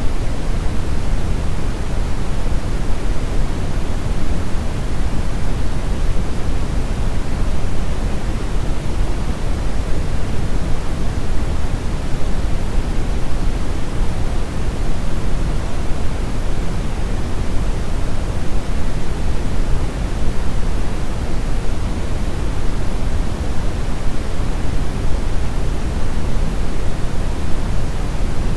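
Brown noise: a steady, even rushing hiss weighted toward the low end, without change or events.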